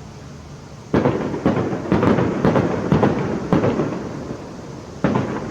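Fireworks going off in a rapid volley of bangs that starts suddenly about a second in and dies down, then a fresh volley breaks out near the end.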